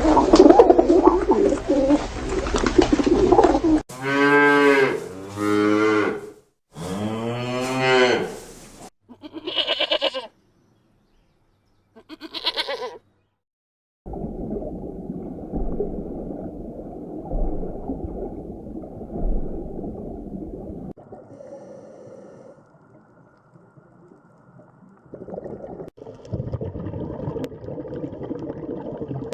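Cattle mooing: two long moos that bend in pitch a few seconds in, followed by shorter higher calls and long stretches of low, noisy farmyard sound.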